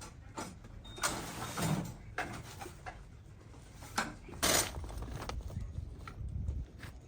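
A run of knocks and short scraping noises over a low rumble, the loudest bursts about a second in and again about four and a half seconds in.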